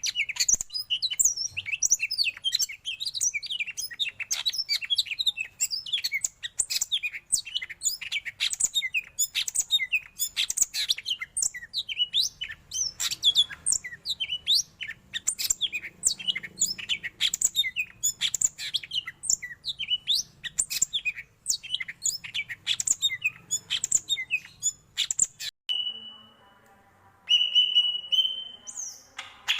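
Yellow-headed cucak ijo (green leafbird) singing a loud, fast, varied song of quick chirps and sweeping notes, packed with learned phrases ("full isian"). A little after 25 s the run breaks off, and near the end it gives a few long, steady whistled notes.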